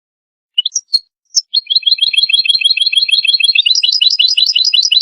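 European goldfinch singing: a few short separate call notes about half a second in, then a fast, even run of repeated high twittering notes, about eight a second, that steps up in pitch a little past halfway.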